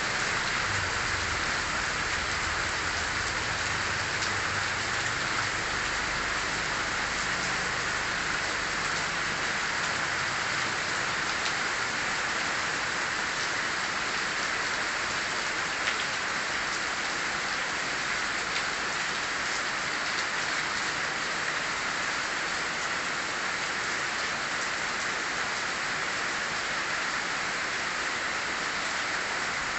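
Heavy rain pouring down steadily, with a faint low rumble that fades out in the first ten seconds or so.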